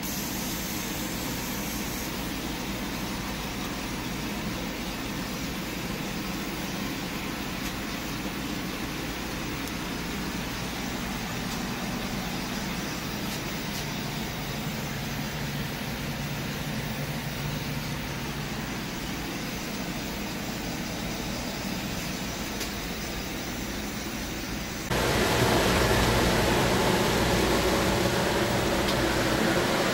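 Steady rushing air noise from powder coating spray equipment (spray gun air and booth fan), which steps up louder about 25 seconds in.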